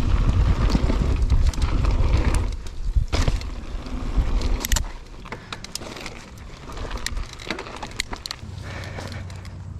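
Mountain bike being ridden over rough trail: wind buffeting the microphone and a steady scatter of sharp clicks and rattles from the tyres and bike. About five seconds in, the wind noise drops away and lighter rattling carries on.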